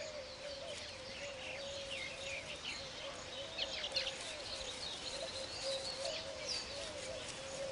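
Weaver birds chirping and chattering: many short high calls and quick down-slurred notes, over a steady wavering tone underneath.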